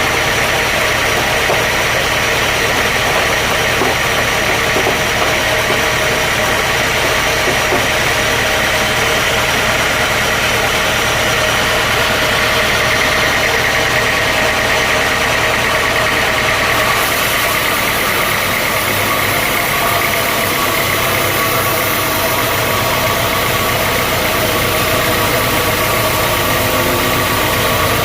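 Sawmill machinery running steadily with a loud engine-like drone. About 17 seconds in the sound shifts: the deep rumble drops away and a high hiss comes in.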